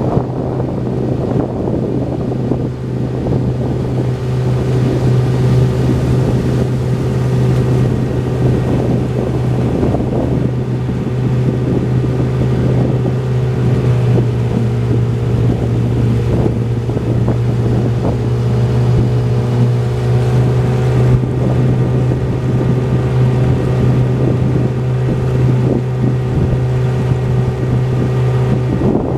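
Boat motor running at a steady speed, a constant low drone, with wind buffeting the microphone.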